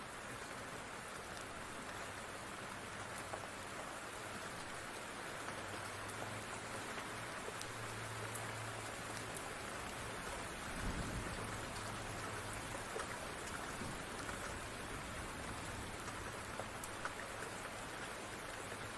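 Steady rain falling, with scattered small crackles from a wood fire. A brief low rumble, like distant thunder, about halfway through.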